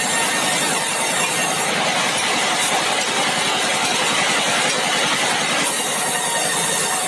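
Sawmill machinery running with a loud, steady, dense noise while a red meranti log is milled. For about four seconds in the middle the sound changes character, its highest hiss falling away.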